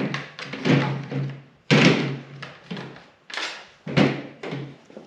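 Heavy steel air cleaner support bracket knocking and clanking against the tractor's engine parts as it is fitted into place: a string of sharp metal knocks, several with a short ring.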